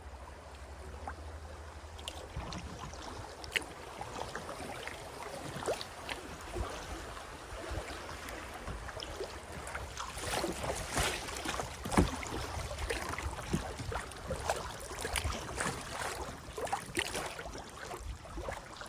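Kayak being paddled: the paddle splashing and dripping water, with many small irregular clicks and knocks that grow busier about halfway through.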